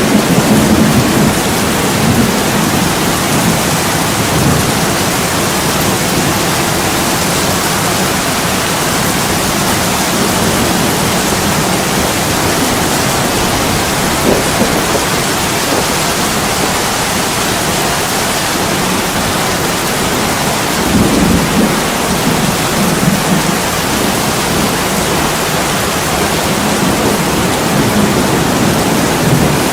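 Heavy rain pouring steadily against window glass, a dense, even hiss. Low rumbling swells rise under it near the start and again about two-thirds of the way through.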